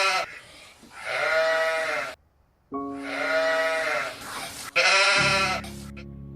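Sheep bleating: several long, wavering bleats in a row, the last one ending about five seconds in. It gives way to a low, steady musical drone.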